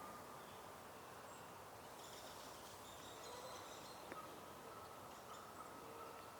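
Quiet spring woodland ambience with faint, distant bird calls.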